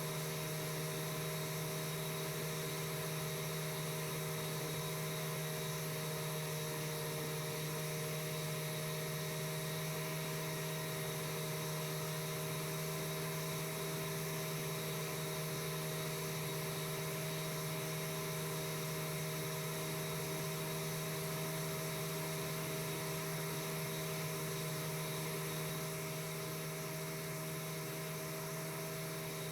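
Piper Super Cub floatplane's piston engine and propeller droning steadily in cruise flight, a constant low hum with a slight drop in level near the end.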